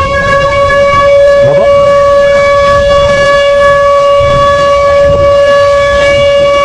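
Warning siren holding one steady, loud tone after winding up in pitch, typical of an outdoor civil-defence siren sounding an alert.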